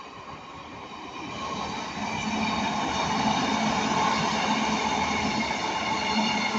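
Northern Class 150 Sprinter diesel multiple unit, coupled with a Class 156, approaching and passing on the line. It grows louder over the first two seconds, then holds a steady engine and transmission hum with a whine over the rail noise.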